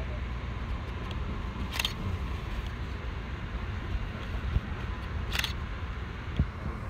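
Steady low rumble of an Amtrak passenger train as heard from inside the car. A short high hiss comes about two seconds in and again about three and a half seconds later, with a couple of dull thumps near the end.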